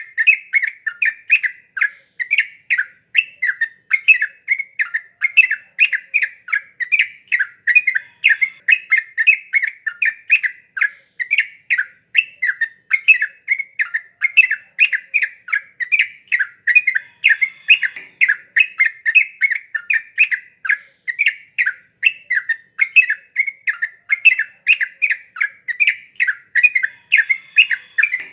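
Yellow-vented bulbul (trucuk) singing vigorously: a steady, unbroken run of short, quick chattering calls, several a second.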